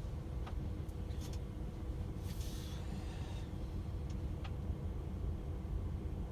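DAF XF 510 truck running steadily at cruising speed, a low engine and road drone heard from inside the cab. A few light clicks, and a brief hiss a little over two seconds in.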